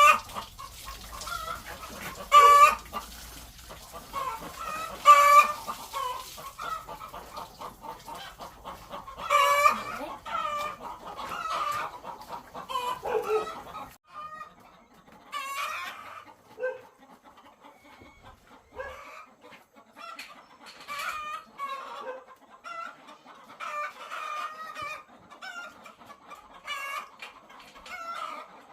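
A flock of egg-laying hens calling over one another in a henhouse, with several loud calls in the first ten seconds. A low hum underneath stops about halfway through.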